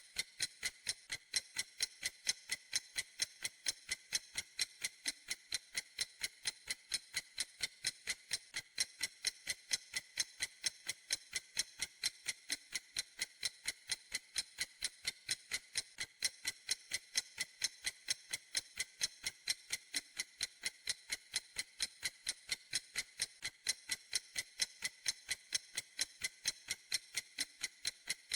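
Clock ticking steadily: crisp, high clicks at an even fast pace, several a second, without any change.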